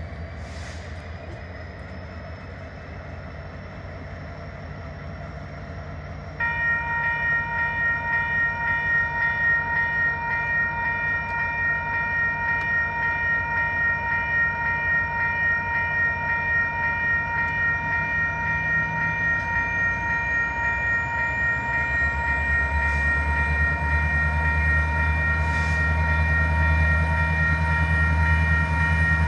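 Diesel freight locomotive approaching, its engine rumbling. About six seconds in, its air horn starts with a steady chord of several notes and holds. The engine grows louder near the end as the train closes in.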